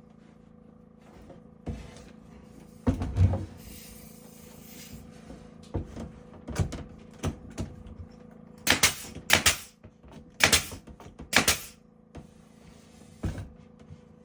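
Irregular knocks and clatter of carpentry work, wood and tools being handled and struck, with the loudest cluster of sharp knocks about nine to twelve seconds in. A faint steady hum runs underneath.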